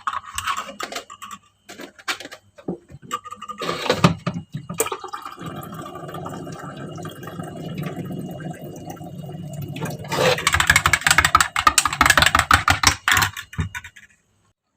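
Household water sounds: a few knocks and clicks of handling, then water running steadily from about five seconds in, turning to louder splashing about ten seconds in, and stopping suddenly near the end.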